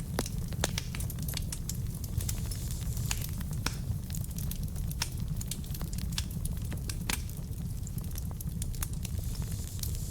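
Wood fire burning in a fireplace: burning logs crackling and popping with sharp irregular snaps over a steady low rumble of the flames.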